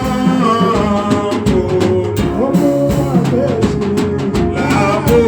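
Worship band music for a slow gospel hymn: a drum kit keeps the beat under a steady bass line and a moving melody line.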